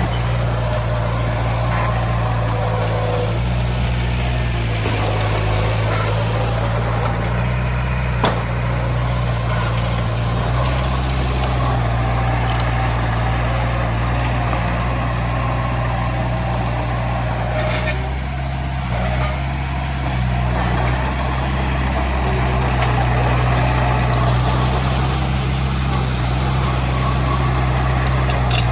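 Heavy diesel earthmoving equipment running steadily, its engine note shifting slightly a few times as the load changes, with one sharp click about eight seconds in.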